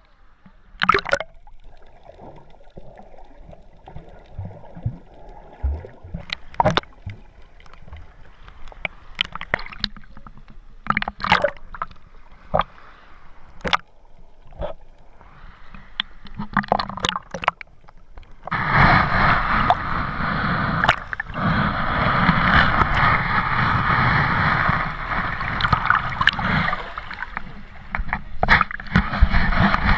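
Water sloshing and splashing in short, irregular strokes, turning to a much louder, steady rush of water about two-thirds of the way through.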